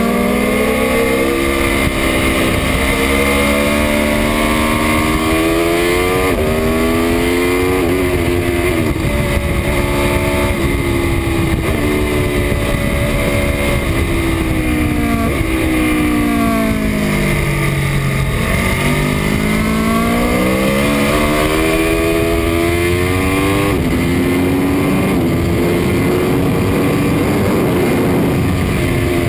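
2018 Aprilia Tuono RR's V4 engine at full track pace: revs climb through the gears with a quick drop at each upshift, then fall low under braking about 18 seconds in before climbing hard again.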